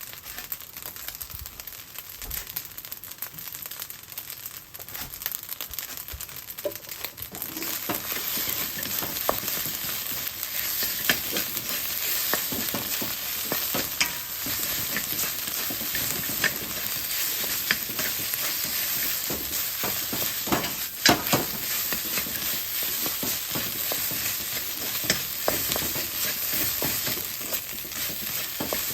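Fried rice sizzling in a hot pan, stirred with a spatula that clicks and scrapes against the pan. The sizzle grows louder about seven seconds in and then holds steady.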